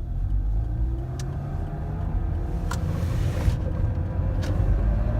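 A 1.3-litre Suzuki Swift accelerating in first gear through a left turn, its engine note slowly rising, with a few sharp clicks over the running noise. This is the 'kokoko' knock that comes only when accelerating through left turns, traced to the left rear drive shaft.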